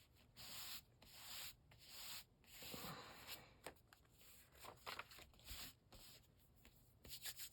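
Faint, repeated swishing strokes of a hand rubbing down a freshly glued sheet of paper to smooth it onto the page.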